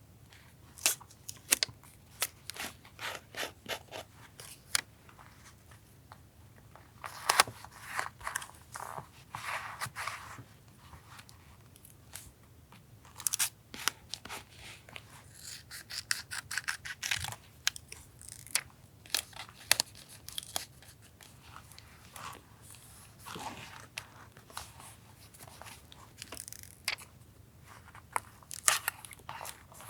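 Paper being worked by hand for a collage: scissors snipping and paper tearing and rustling in irregular short bursts, with brief pauses.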